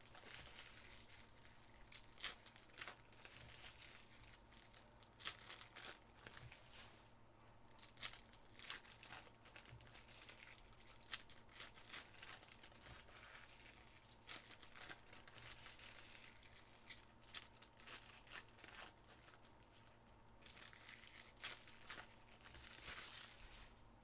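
Faint crinkling and tearing of trading card pack wrappers as packs are ripped open, with many small irregular crackles throughout.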